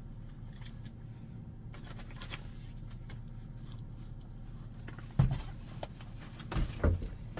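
A steady low hum, with a dull thump about five seconds in and two more in quick succession about a second and a half later, like things being set down or knocked while packing up.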